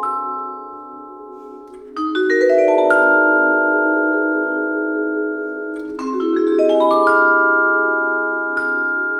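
Vibraphone and marimbas played with mallets: two quick rising runs of struck notes, about two seconds in and about six seconds in, each note ringing on over the others, with a single high stroke near the end.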